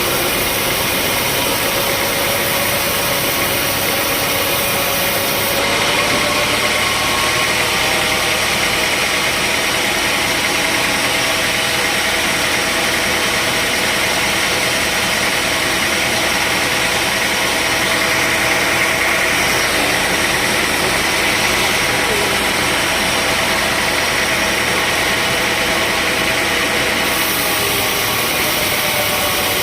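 Sawmill machinery engine running steadily with a dense mechanical noise. About five seconds in, the sound changes, with a stronger hissing band in the upper-middle range that lasts most of the way through.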